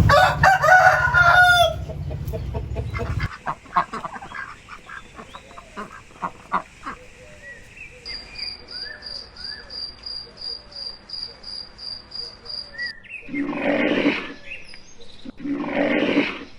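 Chickens clucking and calling: loud calls at the start, then a string of short soft clucks, and two long, loud calls near the end. A high, evenly pulsing chirp runs through the middle.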